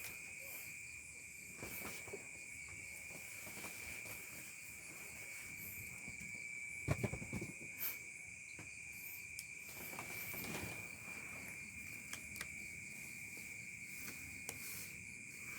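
Steady night insect chorus of crickets, a constant high trill, with a few clicks. Low drawn-out cat growls rise about seven seconds in and again about ten and a half seconds in, the first the loudest.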